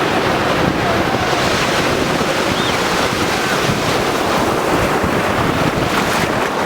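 Sea waves surging and breaking on the shore, a loud steady rush, with wind buffeting the microphone.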